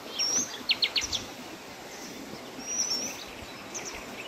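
Small birds calling in the trees: short high chirps and whistles, a quick run of notes about a second in and a gliding call near three seconds, over a steady background hiss.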